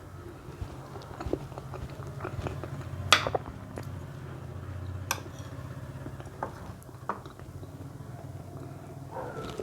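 Close-miked chewing and mouth sounds of someone eating plantain (matoke) porridge, with scattered sharp clicks, the loudest about three seconds in, over a low steady hum.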